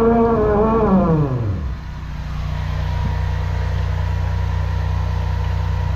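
An engine winds down to idle: a steady high-pitched whine falls in pitch about a second in, then settles into a steady low hum.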